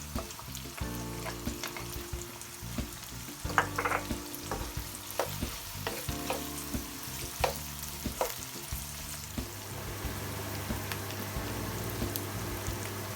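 Chopped onions and green chillies sizzling in hot oil in a pan, frying toward golden brown, while being stirred, with frequent short clicks and knocks of the utensil against the pan.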